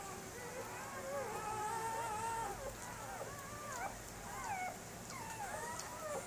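A litter of German Shepherd puppies whining and whimpering, several high, wavering cries overlapping at once.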